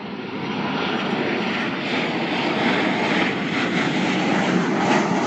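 Jet airliner engines running, a steady rushing noise that fades in at the start.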